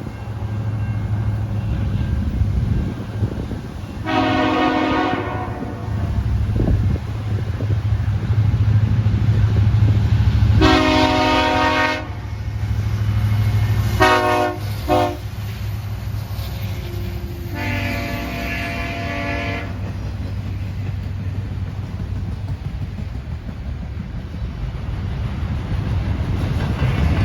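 Locomotive air horn sounding a series of blasts over the steady rumble of a passing train: a long blast, another long one, two short ones close together, then a final long one, close to the long-long-short-long grade-crossing signal.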